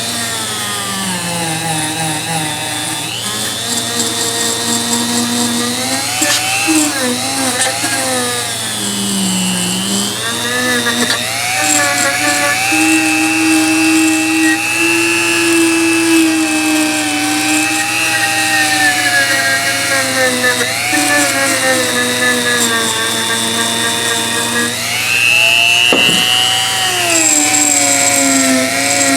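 Electric power tool motor whining steadily, its pitch sagging and recovering again and again as it is pressed against the metal of an old adjustable wrench, with a sharp click near the end.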